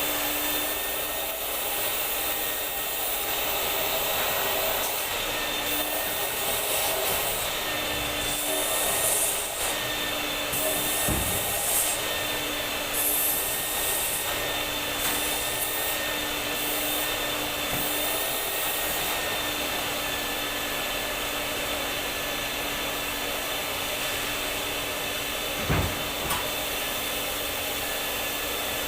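Vacuum cleaner running steadily: a motor whine over rushing air, with two brief knocks, one about a third of the way in and one near the end.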